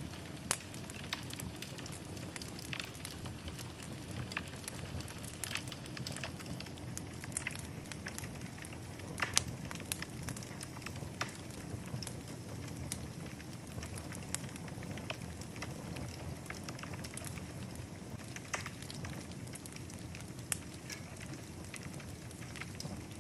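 Wood fire burning in a fireplace: a steady low rumble of flame with frequent irregular crackles and pops, one sharper pop about nine seconds in.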